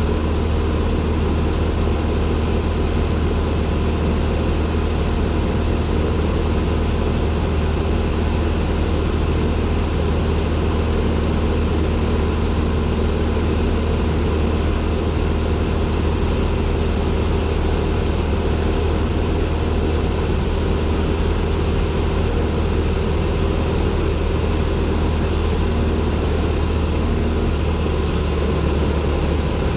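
Cessna 172N's four-cylinder Lycoming engine and propeller running steadily, heard from inside the cockpit as an even, unbroken drone with a strong low hum.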